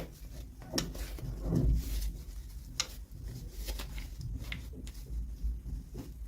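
Irregular small clicks, taps and short rustles of toy packaging and small plastic toy pieces being handled.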